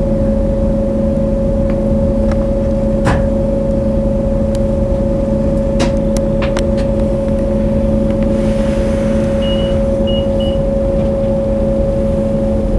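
Railway train or locomotive running steadily: a constant drone holding two level tones over a low rumble, with a few light clicks and three short high beeps about two-thirds of the way through.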